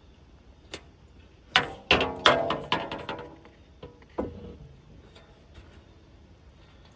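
Steel sawmill parts knocking together: a quick run of sharp metal clanks, each leaving a short ring, then one more ringing knock a second or so later.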